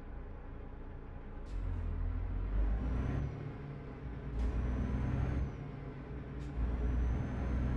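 Truck engine heard from inside the cab, its rumble swelling three times as it pulls. Each swell begins with a brief sharp sound.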